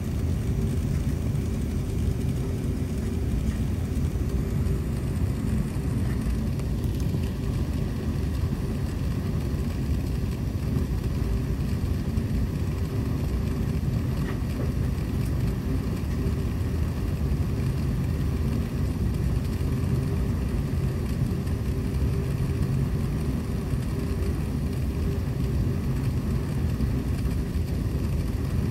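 Steady jet airliner cabin noise: engine and airflow rumble with a constant low hum, unchanging throughout.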